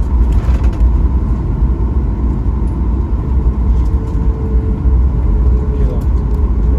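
Boeing 737 MAX 8 cabin noise: a steady, loud low rumble from the engines and airframe, heard from a passenger seat. A faint steady whine joins about halfway through.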